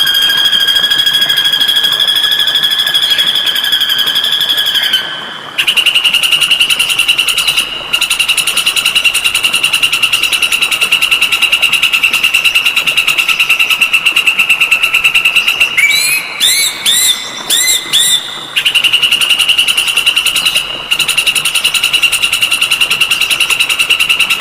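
Recorded songbird song: a fast, evenly pulsed buzzing trill held at one pitch, broken briefly a few times and settling slightly lower after a break about five seconds in. About two-thirds of the way through, the trill gives way to a run of about six quick rising whistled notes before resuming.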